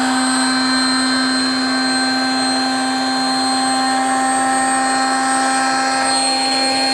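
High-speed electric air pump running steadily, inflating a truck-bed air mattress that is nearly full: a constant hum over a steady rush of air.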